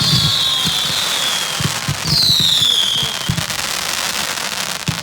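Fireworks going off, with two long whistles that fall in pitch, one after the other, over continuous crackling and scattered pops.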